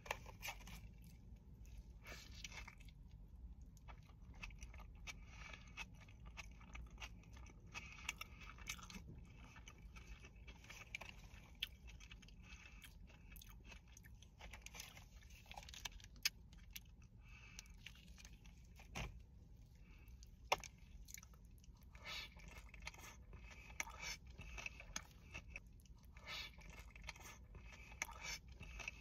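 A person biting and chewing a burger close to the microphone: wet chewing and crunching with scattered sharp clicks, over a faint steady low rumble.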